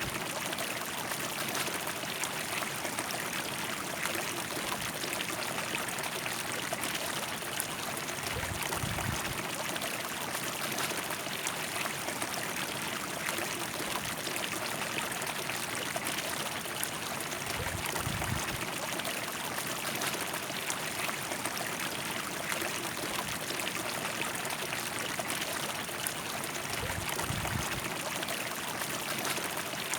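River water flowing steadily over rocks in an even rushing and trickling wash. A few brief low thuds break in about a third, two thirds and near the end of the way through.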